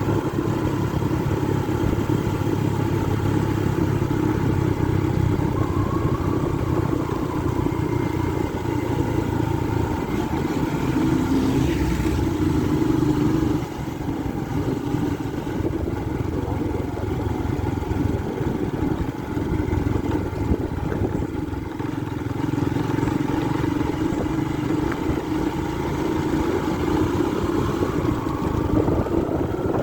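Motorcycle engine running steadily on the move, its pitch rising and falling as the throttle changes, with a short easing-off about halfway through.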